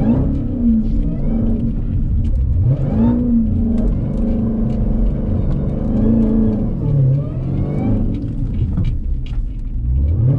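Jeep Grand Cherokee Trackhawk's supercharged V8 revving up and down several times as the SUV spins donuts on snow with traction control off.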